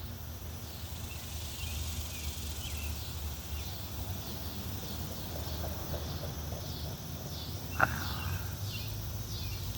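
Cicadas calling outdoors in summer, a repeating pulse of short high chirps over a steady low rumble. One brief, sharp call stands out about eight seconds in.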